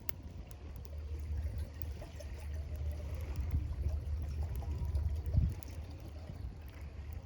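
River water flowing steadily with a low rumble, a few faint clicks scattered through it and a dull thump about five seconds in.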